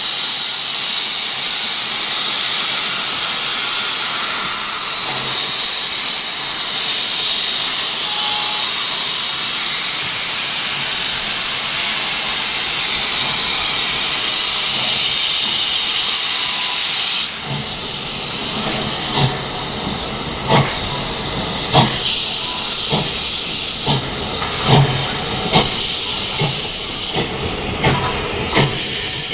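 Steam locomotive hissing loudly with escaping steam. About two-thirds of the way in the hiss drops a little and irregular sharp clanks and knocks start over it.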